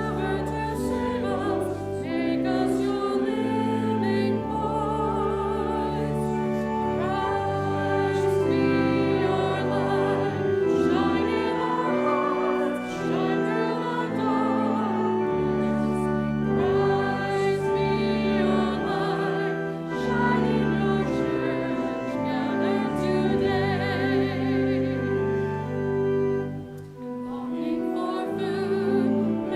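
Church music: voices singing a hymn or anthem in slow, held chords with vibrato over sustained instrumental accompaniment, the chords changing every second or two.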